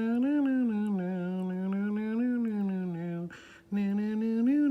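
A person humming a slow tune in long, held low notes that lift briefly now and then, with one short pause about three and a half seconds in.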